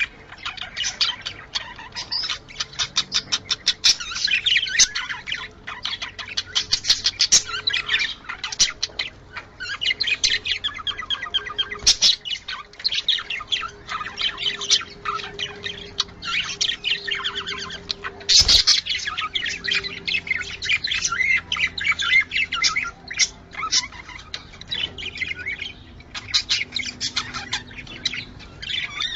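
Budgerigars chattering without a break: rapid chirps and warbles with squawks mixed in. A sharp click sounds a little after the middle.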